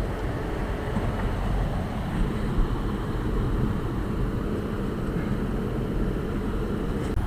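Engine of the rail work vehicle carrying the railway ties running steadily, a continuous low rumble.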